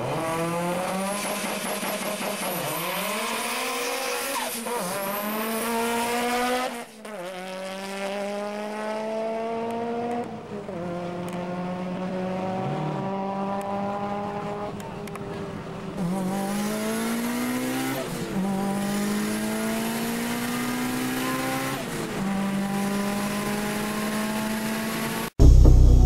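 Mitsubishi Lancer Evolution VII's turbocharged four-cylinder engine revving, then accelerating hard through the gears on a drag run, its pitch climbing and dropping back at each shift several times. A sudden switch to music in the last second.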